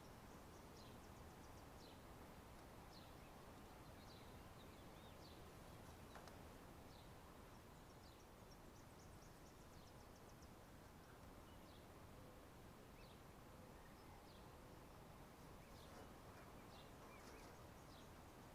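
Faint, short, high chirps of small birds, one every second or so, each sliding down in pitch, over a steady low hiss.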